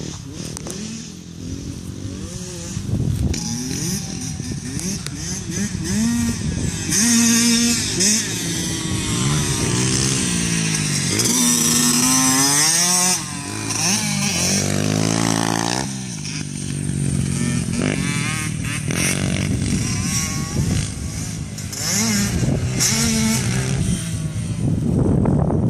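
Motocross dirt bike engine revving hard, its pitch climbing and dropping again and again as the throttle is opened and closed around the track, with stretches of loud hiss over it.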